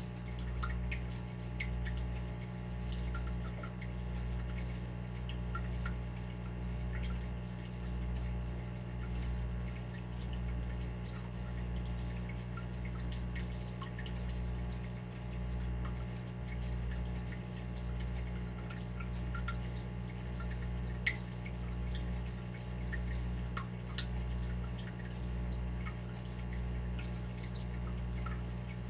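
Water dripping: scattered small drops over a steady low hum that swells and fades about once a second, with two sharper drops late on.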